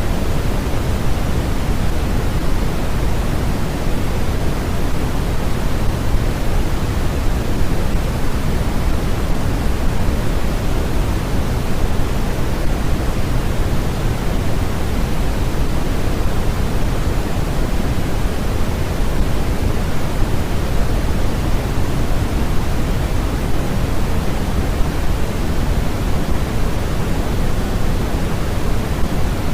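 Steady, unchanging generated noise of the kind used as a sleep or study sound: an even, full hiss that is heaviest in the low end and softer toward the top, closer to pink noise than to bright white noise.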